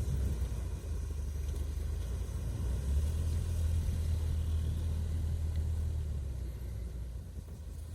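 Toyota 1NZ-FE 1.5-litre four-cylinder petrol engine of an all-terrain vehicle running under load with a steady low rumble, fading over the last couple of seconds.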